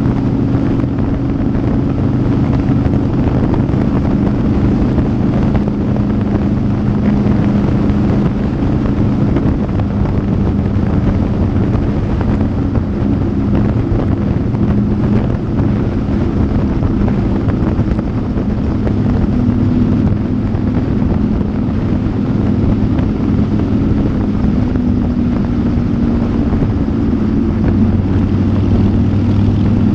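Motorcycle engine running steadily at cruising speed, its pitch shifting slightly a few times, with wind rushing over the microphone.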